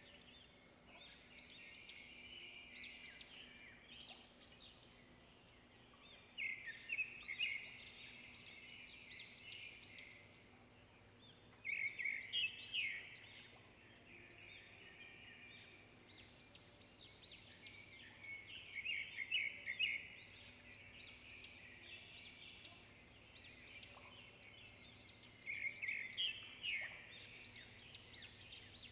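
Small birds singing: loud bursts of rapid high chirps come back every six or seven seconds, with softer chirping between them, over a faint steady hum.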